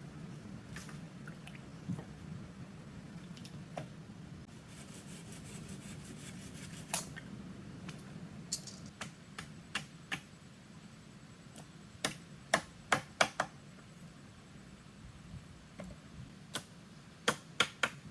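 Irregular sharp clicks and taps, some in quick clusters of three or four near the end, over a low steady hum.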